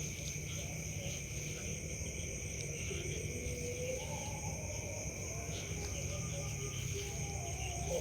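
Steady chorus of crickets and other insects, two unbroken high trilling tones over a low background hum, with faint wavering tones underneath.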